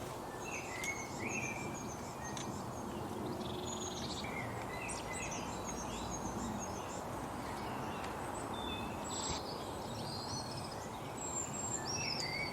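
Small songbirds chirping, with many short high calls and quick pitch glides scattered throughout, over a steady background rush of outdoor noise.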